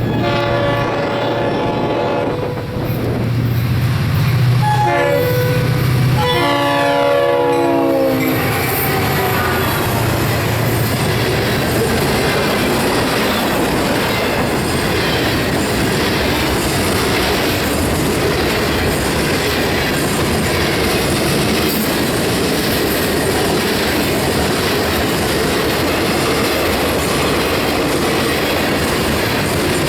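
Florida East Coast Railway train's locomotive air horn sounding three blasts in the first eight seconds, the last one dropping in pitch as it goes by. The train's cars then roll past with a steady rumble and clickety-clack of wheels on the rails.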